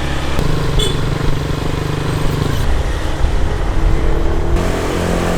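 Motorbike engine running steadily, its note changing about half a second in and again near the end.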